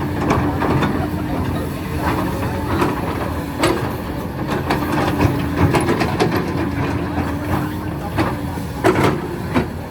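Heavy excavator engine running steadily under load, with scattered sharp knocks and clanks of the bucket working limestone rock.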